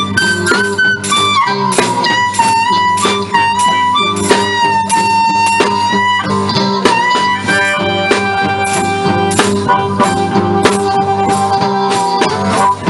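Live blues band playing an instrumental passage: a steady rhythmic beat with a lead line of long, bending held notes over it.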